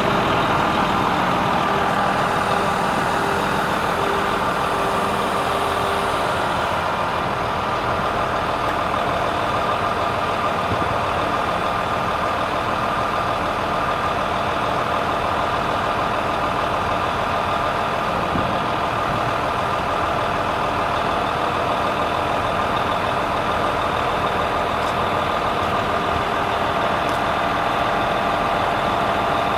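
DAF CF85 truck's diesel engine running steadily at a constant speed.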